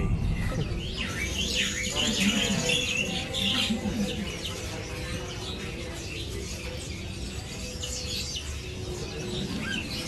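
Many small birds chirping and twittering, many short high calls overlapping, with faint voices in the background.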